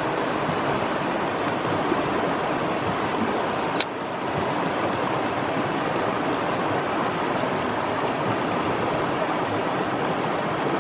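Mountain stream water rushing steadily, a constant hiss, with one sharp click about four seconds in.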